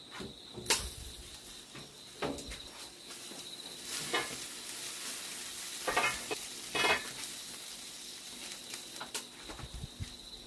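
Food sizzling over the fire, a steady hiss that grows louder about four seconds in. A few short clicks and knocks sound through it, the loudest two around the sixth and seventh second.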